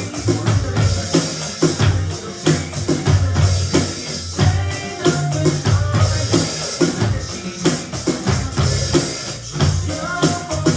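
Drum kit played along to the recorded backing track of a slow pop-rock song, keeping a steady beat with bass drum and snare strokes.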